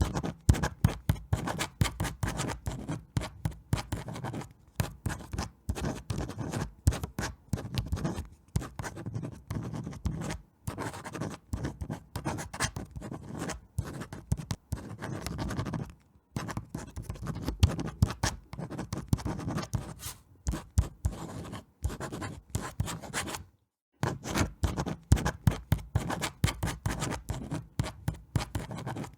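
Dense, irregular crackling and scratching clicks in long stretches, broken a few times by brief gaps of silence.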